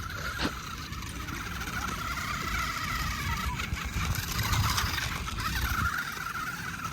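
Electric motor of an RC stunt truck whining steadily, its pitch wavering with the throttle, over a low rumble of the wheels working on dirt.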